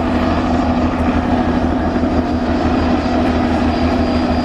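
Helicopter running close by: a steady engine hum with a fast, even chop from the rotor.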